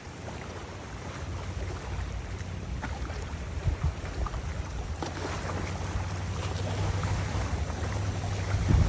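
Wind buffeting the microphone: a steady low rumble with a faint hiss over it, broken by a few short knocks and a stronger gust near the end.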